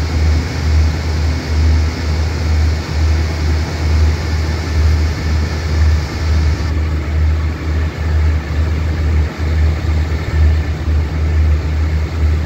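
Uneven low rumble of a train standing and idling, with a steady hiss over it. The highest part of the hiss cuts off about halfway through.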